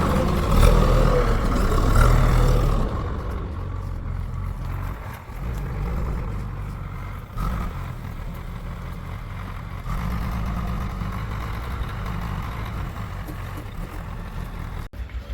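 Diesel engine of heavy earth-moving machinery running, louder for the first few seconds and then steadier.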